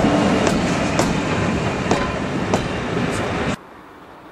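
Passenger coaches of a loco-hauled train passing close by at a level crossing, with a run of sharp wheel clicks over the rail joints. About three and a half seconds in, the sound cuts suddenly to a faint, distant train rumble.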